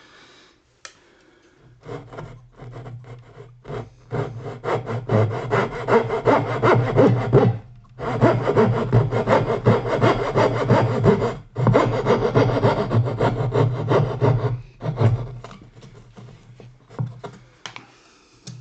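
Hand saw cutting wood with quick back-and-forth strokes, in three long runs separated by short pauses, then tapering off into a few light strokes.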